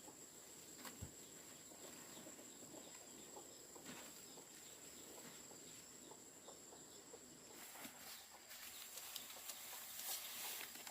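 Faint rural outdoor background: scattered soft clicks over a quiet hiss, with a steady thin high-pitched tone and faint animal sounds, likely farmyard birds.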